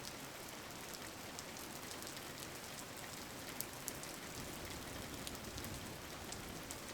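Steady rain falling, a continuous hiss with scattered light drop ticks.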